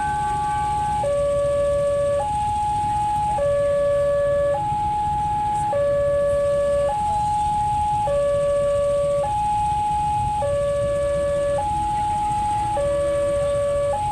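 Railroad level-crossing warning alarm sounding a two-tone high-low signal, each tone about a second long, alternating steadily over a low rumble: the crossing is closed for an approaching train.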